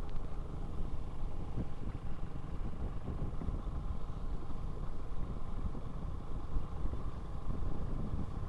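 Motorcycle running steadily on the move: a continuous low rumble of engine and road noise with no sudden events.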